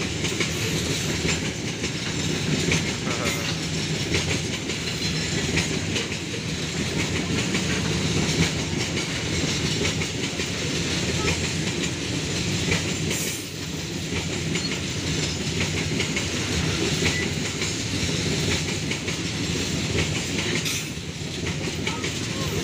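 Indonesian Babaranjang coal train's open hopper wagons rolling past close by: steel wheels running on the rails with a steady rattle and clatter over the rail joints.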